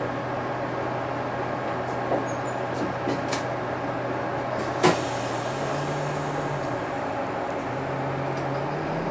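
Diesel engine of a UD Space Runner RA city bus heard from inside the cabin, running with a steady low note whose pitch steps up about halfway through and again near the end as the bus pulls away. A sharp knock about five seconds in, with a few lighter rattles and clicks of cabin fittings before it.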